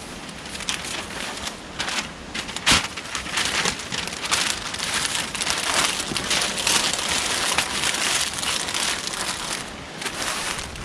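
Crinkling and crackling, like crisp material being crumpled and handled, with one sharp click a little under three seconds in.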